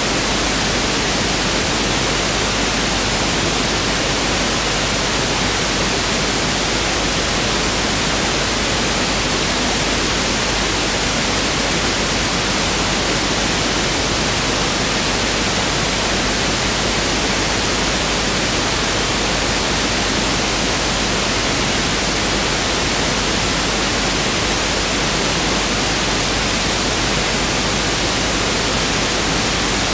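Pink noise (1/f noise) test signal: a steady, even hiss with equal energy per octave, unchanging throughout.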